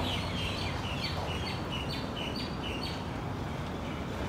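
A bird calling repeatedly, short quickly falling chirps about three a second, which stop about two-thirds of the way through, over a steady low background noise.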